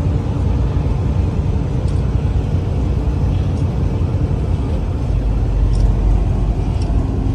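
Steady road and engine rumble of a moving vehicle heard from inside, heavy in the low end, with a few faint light ticks.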